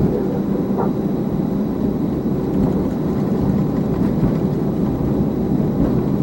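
Airbus A320 taxiing, heard from the flight deck: a steady rumble and hiss of the engines at taxi power and the cabin air, with a faint steady high tone.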